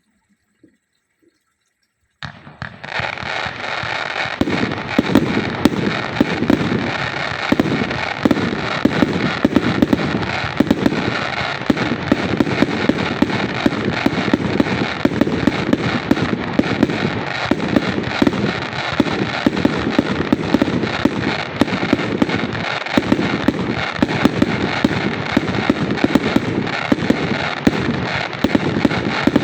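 D100TIC firework going off: after about two seconds of near silence it starts and keeps up a dense, rapid, unbroken crackle of sharp pops and reports.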